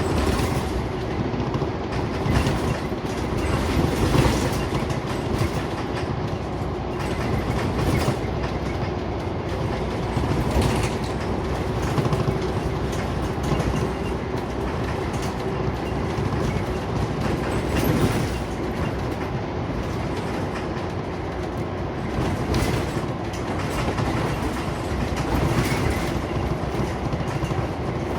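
Interior noise of a moving Scania Omnicity (CN94UB) single-deck bus: steady engine and road drone, with frequent knocks and rattles from the body and fittings.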